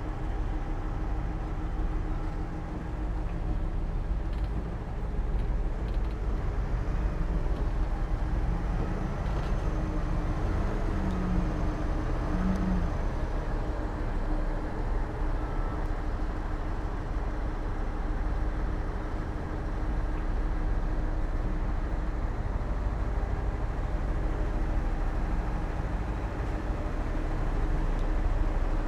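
Heavy diesel earthmoving machinery running steadily, a continuous deep engine sound with no breaks.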